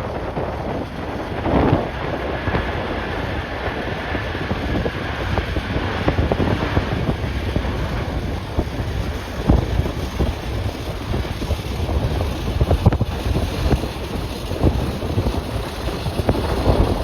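Strong, gusty wind buffeting the microphone, a continuous low rumble with uneven gusts. A faint high whine can be heard under the wind a few seconds in.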